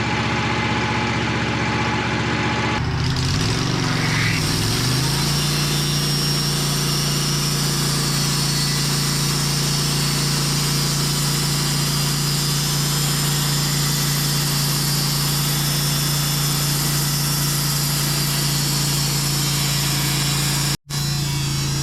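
Portable sawmill engine running steadily while the band saw cuts a white oak log. About three seconds in, the engine note shifts and glides as the cut takes load, then holds steady. Just before the end the sound cuts out for a moment.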